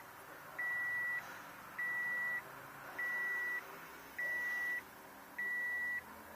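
An electronic warning beep repeating steadily, one evenly pitched high tone about every 1.2 seconds, five beeps in a row.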